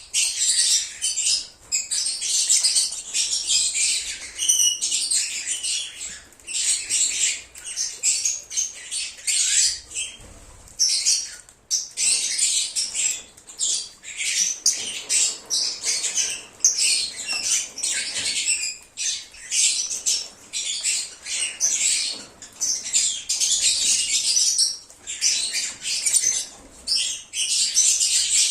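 A flock of lovebirds chattering and chirping continuously in rapid, shrill bursts with short pauses, with occasional squawks.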